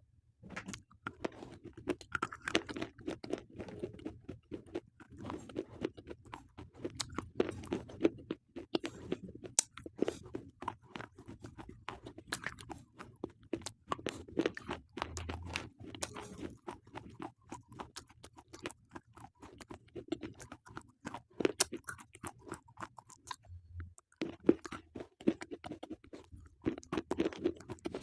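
A person chewing and crunching slate pencils: a dense run of sharp crunches as the sticks are bitten and ground between the teeth, with a brief pause a little before the end.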